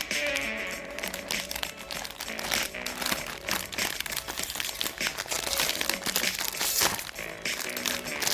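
Plastic snack wrappers crinkling and crackling as packets are handled and torn open, in a dense run of irregular rustles.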